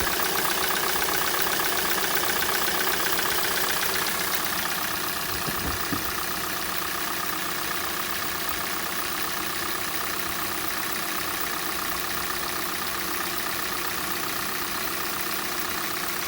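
Hyundai/Kia G4NA 2.0-litre four-cylinder petrol engine idling steadily with an even, rapid knock. This is the cold-engine knock that the owner says fades as the engine warms up.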